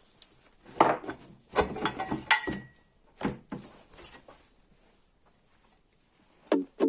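A few sharp knocks and clatter of tools and metal engine parts being handled during teardown, one leaving a short metallic ring about two seconds in.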